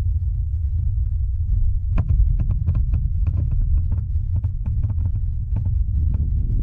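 Wind buffeting the microphone: a steady heavy low rumble with irregular crackling clicks, several a second.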